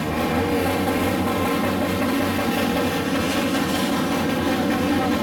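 Several motor scooters with loud aftermarket exhaust pipes running and revving together, a steady engine racket.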